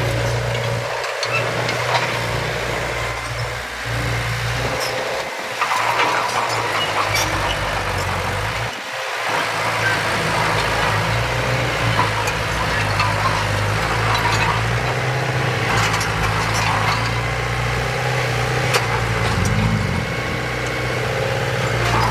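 Engine of heavy earthmoving machinery running steadily, with a few brief dips and scattered clanks.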